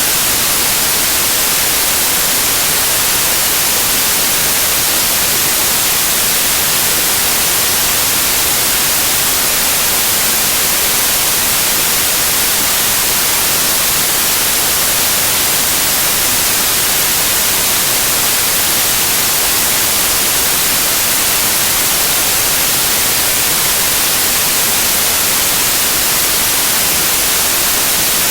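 Loud, steady white noise: an even hiss, strongest in the high frequencies, with no change.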